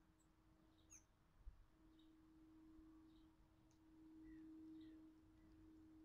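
Near silence: faint, short high chirps of small garden birds about once a second, a few of them falling notes, over a steady low hum. A soft low thump comes about one and a half seconds in.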